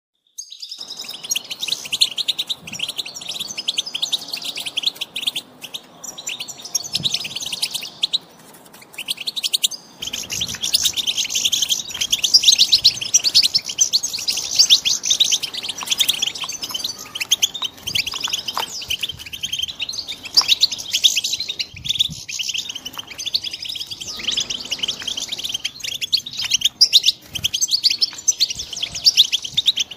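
Young European goldfinches twittering and chirping in a rapid, continuous stream of high notes, with a brief lull about eight seconds in.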